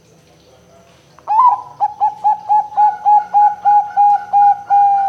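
Zebra dove (perkutut) cooing: starting about a second in, a fast run of short, clipped notes, about three to four a second, ending in one longer held note.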